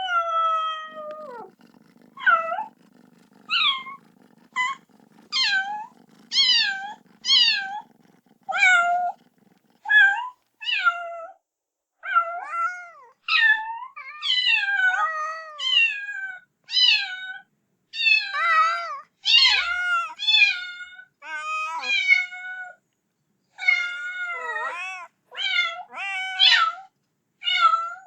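Kitten meowing over and over, a long run of short, high-pitched calls about one every second, typical of a kitten calling for its mother. A faint low rumble sits under the calls for the first third.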